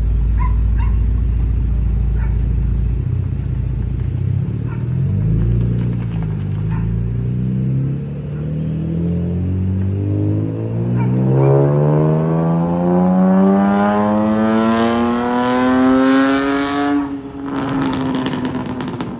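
V6 Camaro with a muffler-delete exhaust, rumbling at low revs, then accelerating in one long pull with the engine note climbing steadily for several seconds. Near the end the pitch drops suddenly and settles to a lower steady drone.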